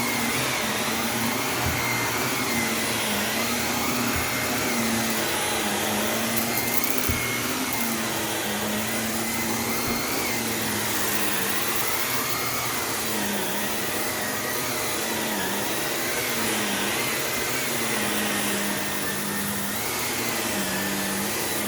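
Shark Navigator Lift-Away NV351 upright vacuum running steadily on carpet, its motor pitch dipping and recovering every second or two as it is pushed back and forth. A few faint knocks come and go.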